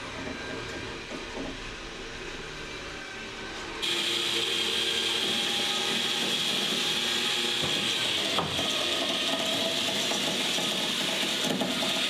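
Wheels of a long-parked VW truck rolling across the garage floor as it is pushed, a steady grinding, rubbing noise that gets suddenly louder about four seconds in.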